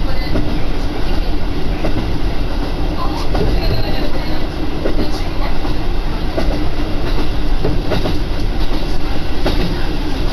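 Diesel railcar running along the line, heard from inside the carriage: a steady low engine and running drone with a constant hum, and scattered clicks and knocks from the wheels on the track.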